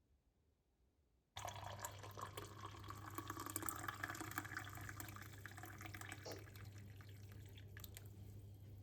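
A tap is turned on about a second in and water runs steadily into a sink.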